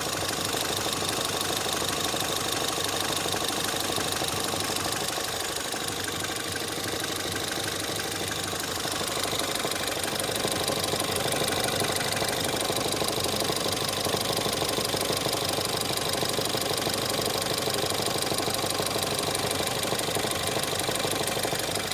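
Ford Fiesta ST 180's 1.6-litre EcoBoost turbo four-cylinder running steadily with a deep, regular knocking. Ford blames the clutch release bearing, but the knock stays whether the clutch is pressed or not, and the owner suspects bearing damage.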